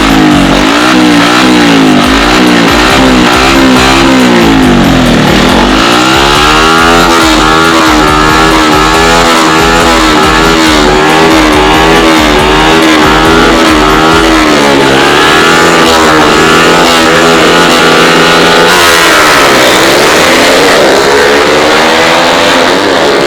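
Modified Honda Wave 110i small single-cylinder motorcycle engines revving hard. The pitch climbs, drops sharply, and climbs again several times as the revs rise and fall through the gears.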